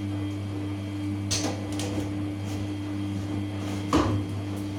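Samsung P1271 washing machine running with a steady hum, with two short knocks, the louder one about four seconds in.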